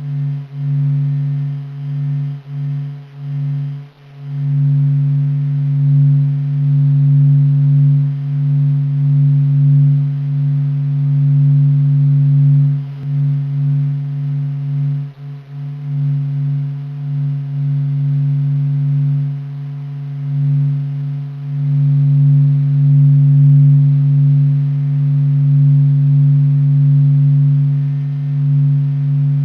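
NASA's sonified sound of the Sun, the Sun's own oscillations made audible: a deep, steady hum with a second tone above it and fainter overtones. It swells and wavers in loudness, with brief dips about 4 and 15 seconds in.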